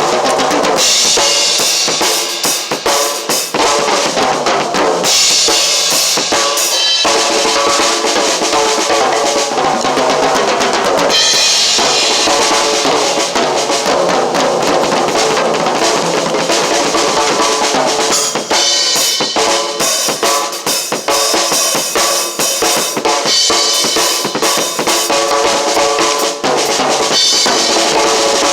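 Drum kit played continuously, with bass drum and snare strokes, the groove changing every few seconds.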